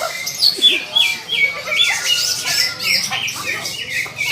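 Several cucak ijo (green leafbirds) singing at once: a fast, unbroken run of short, repeated chirping and squawking notes.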